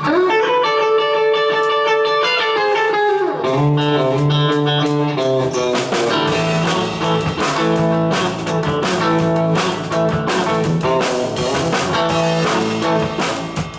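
Electric guitar playing a bluesy rock part. It holds a chord that slides down in pitch about three seconds in, then plays rhythmic chords.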